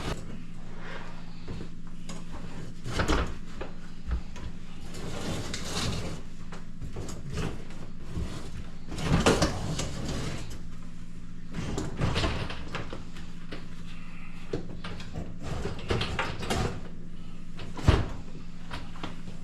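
Irregular knocks, clicks and scrapes of parts being handled and refitted on a dishwasher, over a steady low hum. The loudest clatter comes about nine seconds in, and a sharp knock comes near the end.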